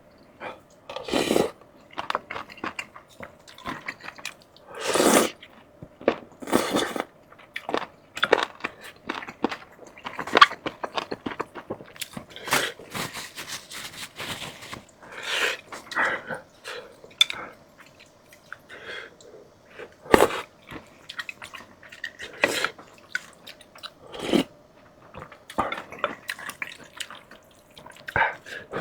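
Close-miked eating: crunching bites and chewing of crisp food, an irregular run of crackles and clicks broken by louder bites every second or two.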